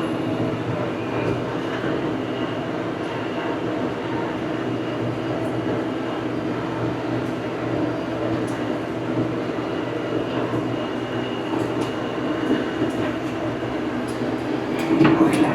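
Farm tractor engine running steadily as the tractor is driven, an even mechanical drone.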